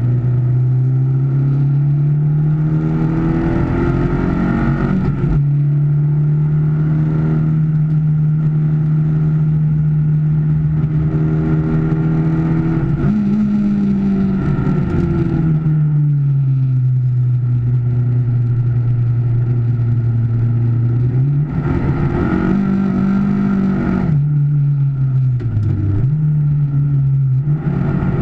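Car engine heard from inside the cabin on a track lap, its note climbing under throttle, holding steady for long stretches and falling back as the car slows and shifts, then climbing again near the end.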